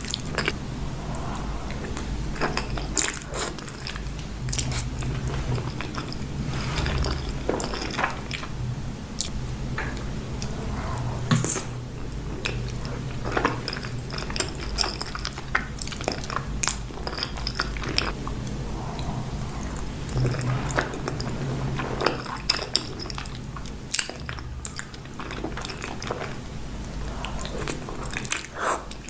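Close-miked eating of creamy pasta: wet chewing, with frequent light clicks of a fork against a plate or bowl.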